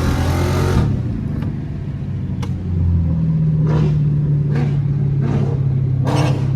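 Loud car engine revved hard: a rising rev breaks into a loud exhaust blast at the start, then after about three seconds the engine is held at steady high revs.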